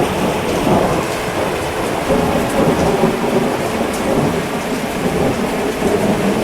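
Steady heavy rain with thunder rumbling on underneath.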